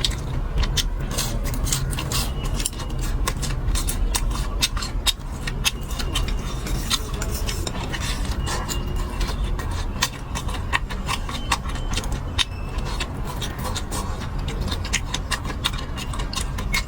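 Close-miked eating: chewing and mouth clicks in quick, irregular succession, over a steady low hum.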